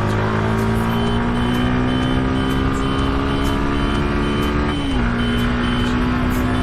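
Suzuki Gixxer SF 150's single-cylinder engine pulling hard under acceleration, its note rising steadily, with an upshift about five seconds in that drops the pitch before it climbs again.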